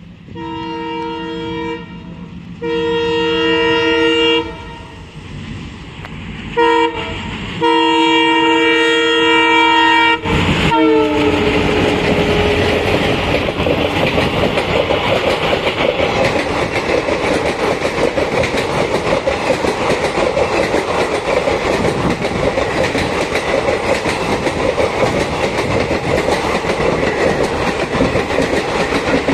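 Twin ALCO diesel locomotives (WDM3D and WDM3A) sound their multi-note horn as they approach: two blasts, a short toot, then a long blast that drops in pitch as they pass about ten seconds in. The express's coaches then run through the station at speed, with a steady clickety-clack of wheels over the rail joints.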